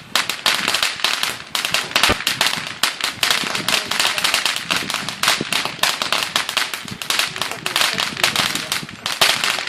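Firecrackers going off in a rapid, continuous string of small sharp bangs and crackles.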